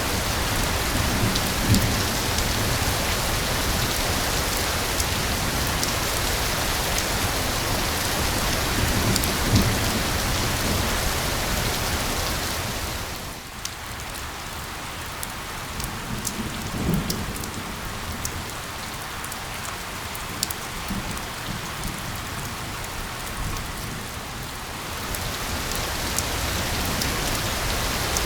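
Steady rain falling, a dense hiss with fine drop ticks, with a few low rumbles of distant thunder. The rain eases and grows quieter for about ten seconds in the middle, then picks up again.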